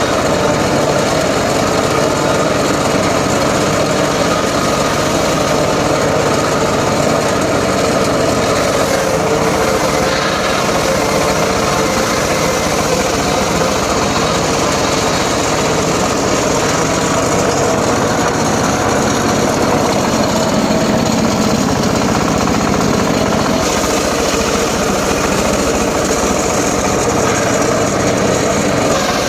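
Small engine running steadily and loudly without a break.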